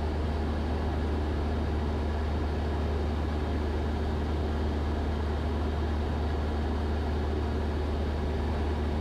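Cessna 172's piston engine and propeller droning steadily in cruise, heard from inside the cockpit, with no change in pitch or level.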